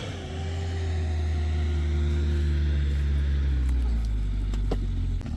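A motor engine running steadily with a deep hum, its pitch easing slowly down after a rise just before. A few sharp clicks come near the end.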